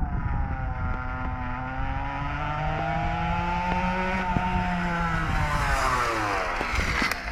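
Derbi Senda DRD 50cc two-stroke engine running through a Ninja carbon exhaust, held at a fairly steady speed. Its pitch climbs slowly for about four seconds, then falls away over the last two.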